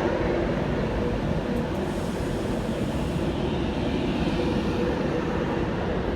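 Class 390 Pendolino electric train at the platform, a steady rumble and hum with two steady tones running through it.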